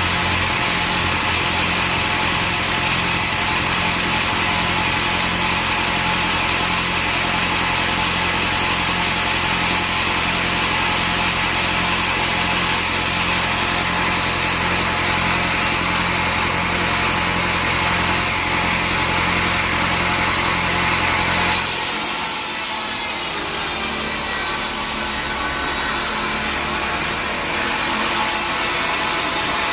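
A sawmill saw running and cutting through a log, steady over a low machine hum. About three-quarters of the way through, the low hum drops away and a brighter, hissing cutting sound takes over.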